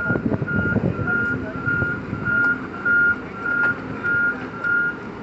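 Heavy machine's reversing alarm beeping about twice a second over the low rumble of its diesel engine, with a few clanks in the first second.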